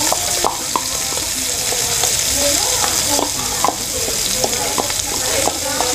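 Sausage pieces sizzling steadily in an aluminium pot as chopped onion and garlic are scraped in from a bowl with a wooden spoon. Irregular light knocks of the spoon against the bowl and pot sound over the sizzle.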